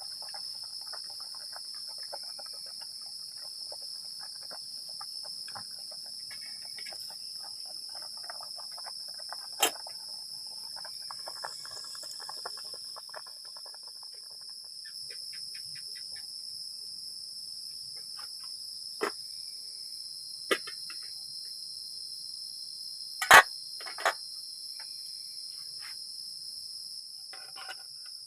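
Steady high-pitched drone of forest insects chirring throughout, with faint crackly ticks in the first half and a few sharp knocks, the loudest about two-thirds of the way through.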